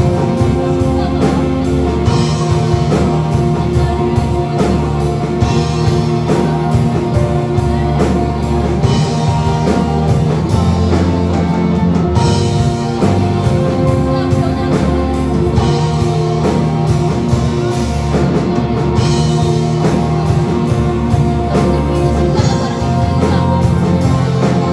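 Rock-style praise band music: guitars and a drum kit playing a steady beat, with held notes.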